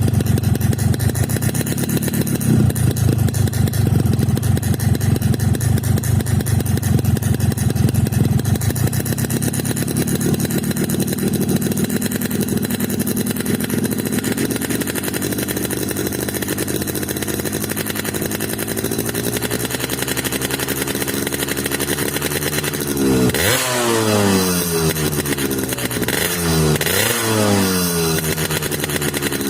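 Motorcycle engine running through a Boban C39 aftermarket exhaust on a stock, oversize-0 engine, idling just after starting. The idle speed creeps up, then the throttle is blipped, the revs rising and falling once a little past the middle and twice more near the end.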